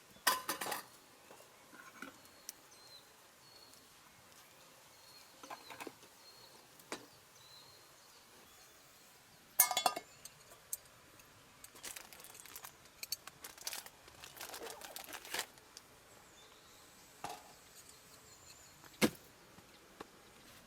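Intermittent clinks, scrapes and knocks of metal cooking utensils against camp cookware, with a louder ringing clink about ten seconds in.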